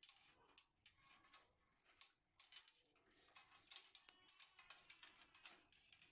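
Faint household handling sounds: irregular light clicks and rustling.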